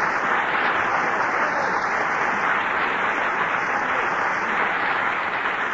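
Studio audience applauding after a song, a steady round of clapping that starts to ease near the end, heard on an old radio broadcast recording.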